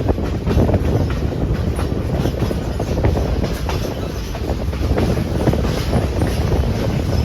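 Passenger railroad car rolling along the track: a steady low rumble of wheels on rail, with scattered clicks and rattles.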